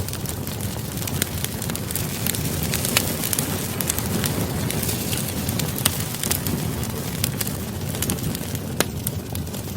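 Campfire burning with a steady rush, crackling with frequent irregular sharp pops.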